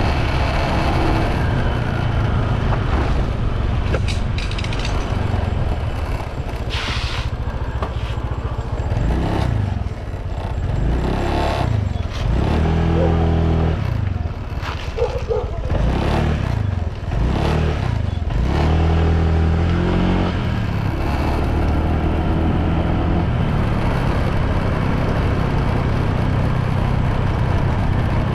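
Motorbike engine running on the road under a steady low rumble, its pitch climbing and falling several times in the middle as it speeds up and slows down.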